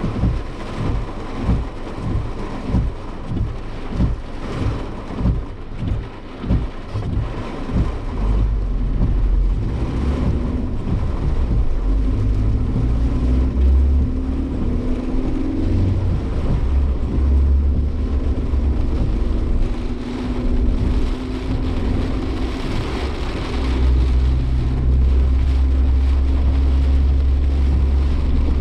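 Cabin sound of a Suzuki Jimny Sierra out in typhoon rain: regular low thumps a little more than once a second for the first several seconds. Then, about eight seconds in, the engine and road noise rise into a loud steady low drone, with the engine note climbing and falling as the car accelerates.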